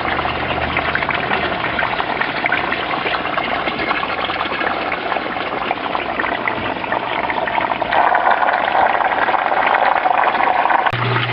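Water in an aquaponics system running and splashing steadily, growing louder about eight seconds in. A low hum sits under it at the start and again near the end.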